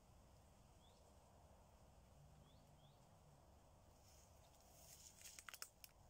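Near silence outdoors, with three faint, short rising chirps from small birds, then a brief burst of crackling and rustling about five seconds in.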